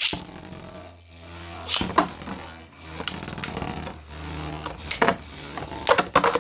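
3D-printed beyblades spinning and grinding against each other in a stadium: a steady whir broken by sharp clacking collisions, with a flurry of hard hits near the end.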